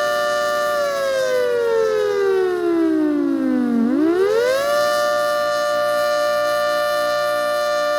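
ACA Hurricane 130 MKII outdoor warning siren with a custom 10/12-port rotor sounding its attack (wail) signal as a two-tone chord. The chord holds briefly, then falls in pitch for about three seconds, swoops back up within a second and holds steady again.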